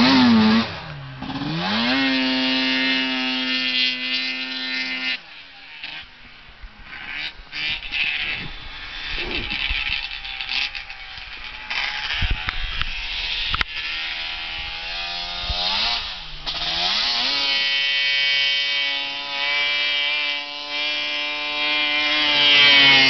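Arctic Cat big-bore 800 two-stroke twin snowmobile engine on a tuning test run: it dips, climbs and holds steady revs, drops back to quieter, uneven running about five seconds in, then climbs and holds high again from about seventeen seconds, rising near the end.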